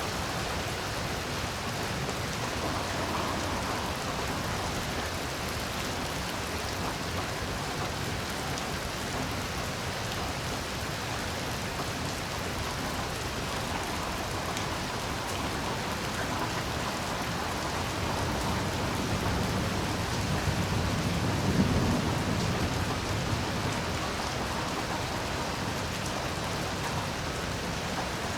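Heavy rain falling steadily, with a low rumble of thunder that swells about two-thirds of the way through and fades again.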